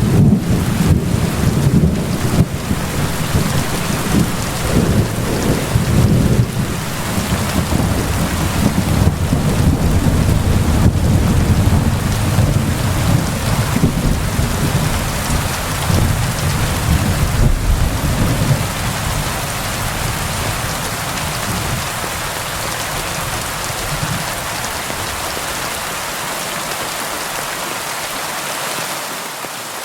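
Steady rain falling, with a long low rolling rumble of thunder underneath that fades away about two-thirds of the way through, leaving the rain alone.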